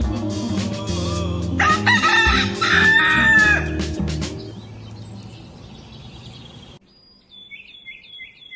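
A rooster crows once, loud and drawn out, over background music that then fades away. Near the end, small birds chirp briefly.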